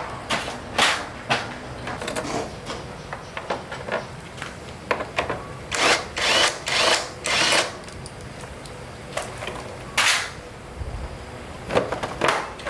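Irregular clicks, clanks and knocks of hand tools and metal parts being handled during work on a motorbike, with a few longer scraping bursts in the middle and a sharper one about ten seconds in.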